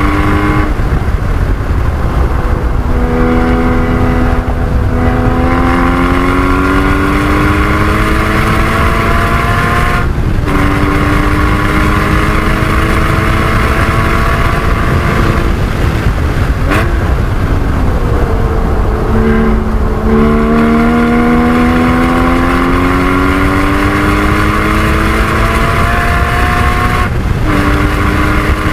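Porsche 981 Cayman GT4's flat-six engine under hard acceleration on a race track, its pitch climbing through each gear and breaking off sharply at a handful of quick upshifts. Around the middle the engine note falls away under braking with downshifts before it pulls up through the gears again. Steady tyre and wind noise runs underneath.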